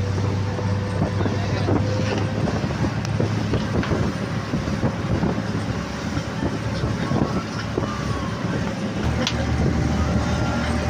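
Motorboat engine running steadily under heavy wind noise on the microphone.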